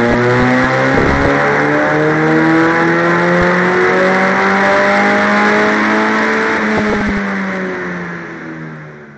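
Toyota 2E 1.3-litre carburetted four-cylinder engine pulling under load on a chassis dynamometer, its revs climbing steadily for about six seconds and then levelling off. The sound fades away near the end.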